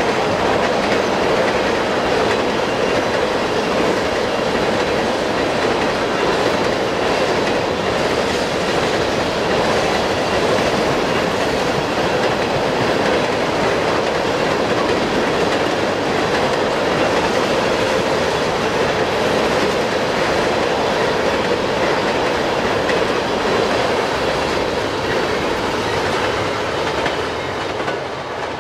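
Empty railroad tank cars of a freight train rolling past, their wheels making a steady noise on the rails. The sound fades near the end as the last car goes by.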